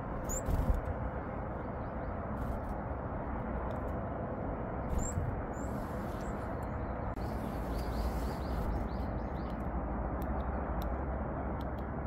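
A few short, high chirps from varied tits, a pair about half a second in and another pair around five seconds in, over a steady outdoor rush. There is a brief low thump near the start and a few sharp little clicks near the end.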